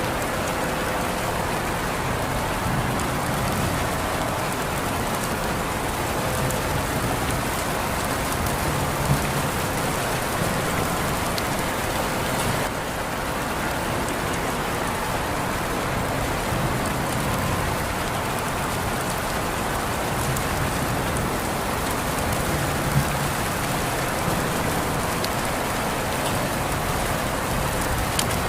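Steady rain falling on surfaces, an even hiss with scattered individual drop taps.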